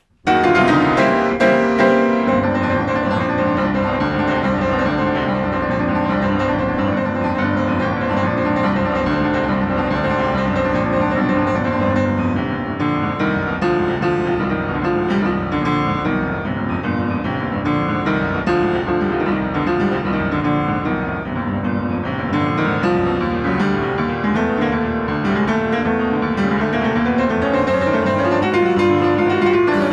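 Piano playing a dense, continuous passage that starts abruptly just after the beginning and keeps an even loudness throughout.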